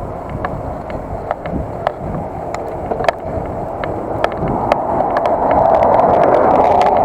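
Bicycle riding heard through a bike-mounted SJ4000 action camera: a steady rumble of wind and tyre noise with frequent sharp clicks and rattles. The rush grows louder from about five seconds in.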